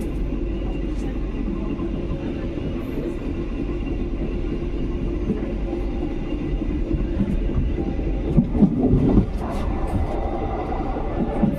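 A passenger train running along the track: a steady low rumble of wheels on rail with scattered clicks, and a cluster of louder knocks about eight seconds in.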